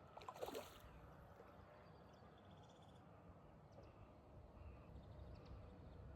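Near silence: faint outdoor background, with one short sound whose pitch falls quickly about half a second in.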